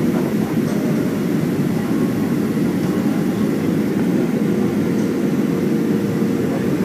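Boeing 737-400's CFM56-3 jet engines and the airflow over the fuselage, heard as a steady drone inside the passenger cabin, with a faint steady tone running through it.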